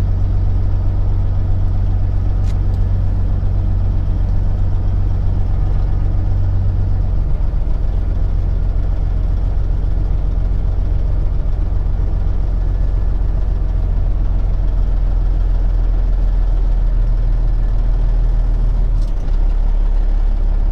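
Peterbilt 379 truck's diesel engine running at low speed, a steady low hum whose pitch shifts about seven seconds in and again near the end as the engine speed changes.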